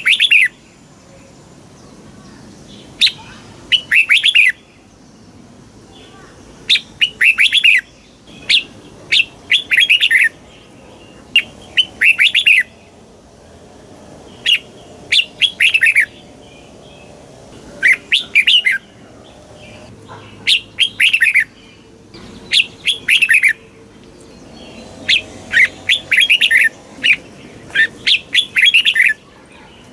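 Red-whiskered bulbul singing: short phrases of quick, bright whistled notes, repeated every one to three seconds with brief pauses between them.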